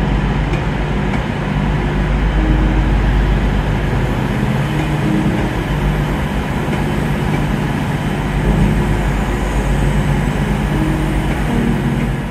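Passenger trains running through a station: a loud, steady low drone of engine and running noise, its pitch shifting now and then.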